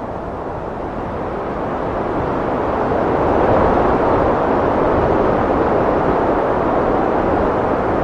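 Heavy wind blowing steadily, growing stronger from about two seconds in and then holding at that strength.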